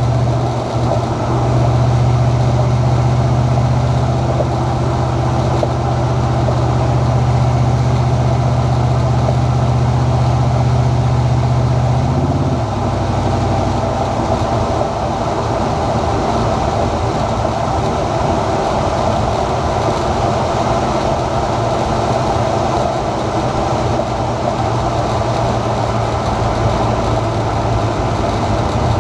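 Ford 7.3L Godzilla V8 with custom exhaust cruising at highway speed, a steady low drone with road noise. About twelve seconds in the engine note briefly rises and then drops to a lower, rougher drone as the 6R80 automatic shifts.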